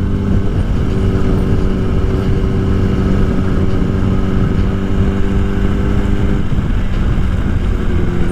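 Motorcycle engine running at a steady cruising pitch while riding, under wind noise. The engine note dips and shifts briefly about six and a half seconds in, then holds steady again.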